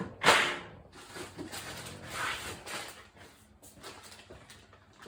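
Rummaging through a workshop parts stash: a loud clatter about a third of a second in, then a couple of seconds of rattling and scraping of parts being moved, and a few scattered clicks near the end.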